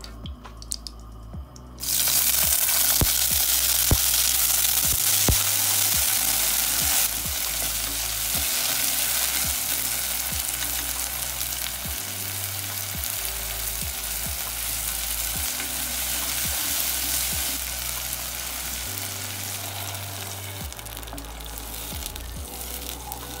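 Peas and carrot slices hitting hot fat in a pot: a loud sizzle starts suddenly about two seconds in, then settles into a steady frying sizzle that slowly fades. A wooden spoon stirring them clicks against the pot now and then.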